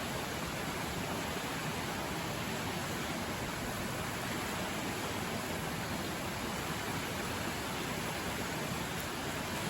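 Steady rush of a river flowing close by, an even, unbroken noise.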